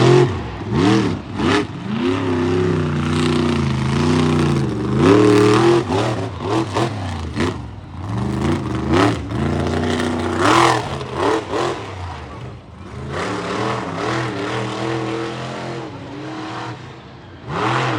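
Monster truck engine revving hard, its pitch rising and falling again and again as the throttle is worked, with loud bangs from time to time.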